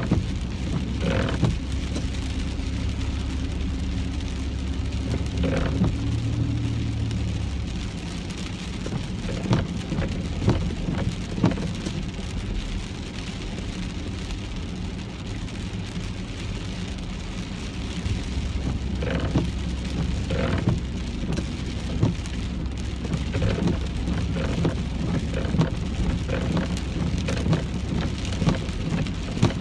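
Rain falling on a moving car, over the low steady hum of the car's engine and tyres, with scattered sharp ticks. The low hum eases for a stretch in the middle and then returns.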